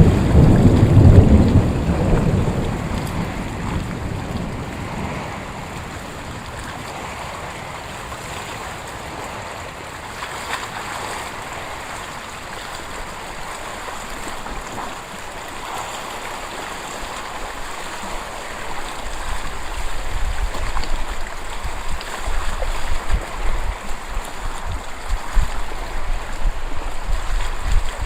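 Thunder rumbling and fading away over the first few seconds, then a steady hiss of wind and water. Wind buffets the microphone in uneven gusts over the last third.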